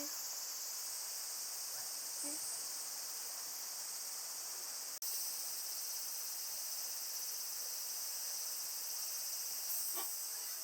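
Steady, high-pitched chorus of insects trilling, unbroken except for a momentary dropout about halfway.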